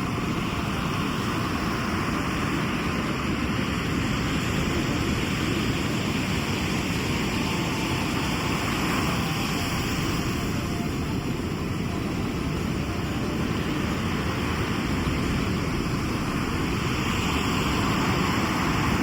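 Sea surf washing on the shore: a steady rushing noise that swells gently about halfway through and again near the end.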